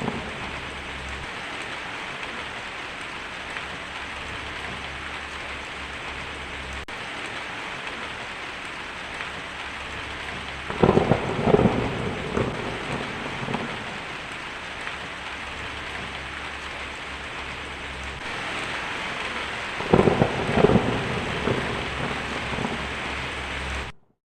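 Heavy rain drumming steadily on a tin roof, with two rolls of thunder, one about eleven seconds in and another about twenty seconds in. The sound cuts off suddenly just before the end.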